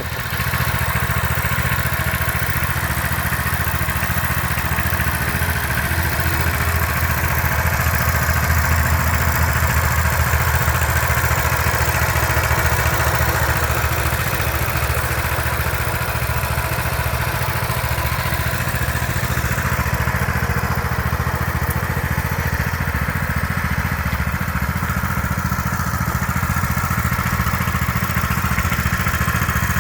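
Coleman BT200X mini bike's small single-cylinder four-stroke engine running steadily.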